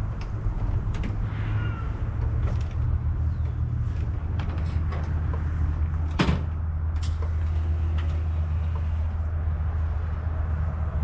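Harley-Davidson Road Glide's Milwaukee-Eight 117 V-twin idling steadily through TAB Performance 4.5-inch slip-on mufflers with zombie baffles, with scattered light clicks and one sharp click about six seconds in.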